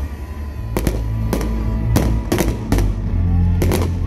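Fireworks display: aerial shells bursting in an irregular run of sharp bangs, about seven in four seconds, over loud music with a strong, steady bass.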